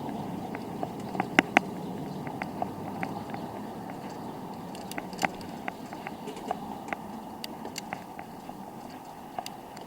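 Riding noise on a bicycle: a steady rumble of tyres and wind with irregular clicks and rattles from the bike over the pavement. The loudest is a sharp pair about a second and a half in. The rumble fades gradually.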